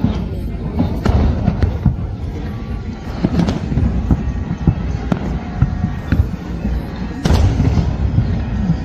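Fireworks display: a continuous run of booms and sharp bangs, with a bigger burst about seven seconds in.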